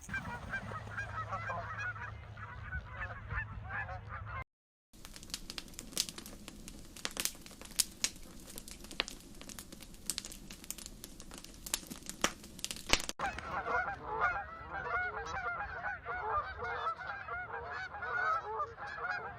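A flock of Canada geese honking in a dense, overlapping chorus. About four seconds in the sound cuts out briefly, and for the middle stretch the honking gives way to a crackling noise with many sharp clicks. The honking chorus returns, loud again, for the last several seconds.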